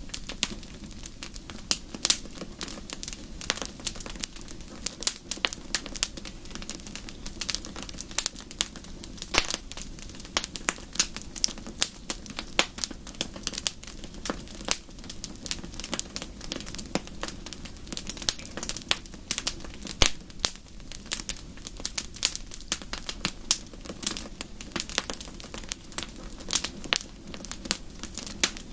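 Wood fire in a fireplace crackling: a constant run of irregular pops and snaps, a few louder and sharper than the rest, over a low steady background.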